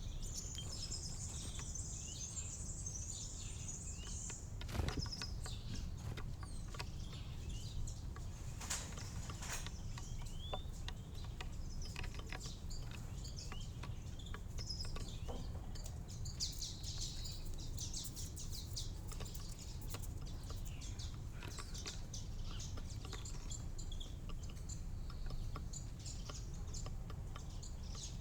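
Small garden birds chirping and twittering again and again over a steady low background rumble, with a few sharp clicks, the loudest about five seconds in.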